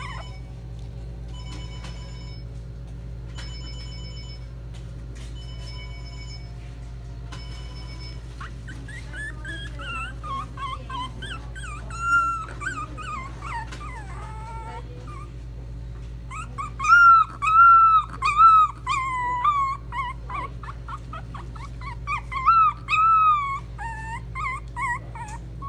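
Puppy whining and yelping in high calls that bend up and down, loudest a little past the middle. Before it starts, short electronic beeps repeat about once a second, and a steady low hum runs underneath.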